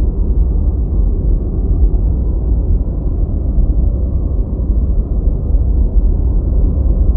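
Steady deep white noise: an even, low, rumbling hiss, heaviest in the bass, with no high-pitched hiss on top.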